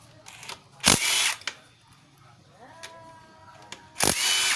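Stanley SBI201D2K 18V cordless impact driver run in two short bursts of about half a second each, about three seconds apart, each starting suddenly.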